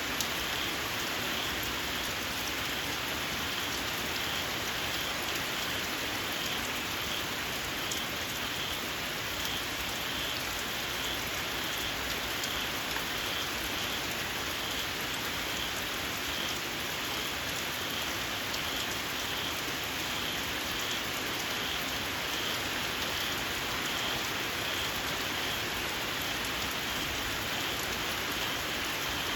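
Steady rain falling on a surface, with small paddy-field frogs keeping up a shrill, evenly pulsing call underneath, a little over one call a second. Scattered sharp drips tick through the hiss.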